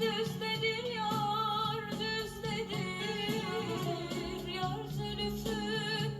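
Female voice singing a Turkish folk song (türkü) with ornamented, wavering melismas over instrumental accompaniment.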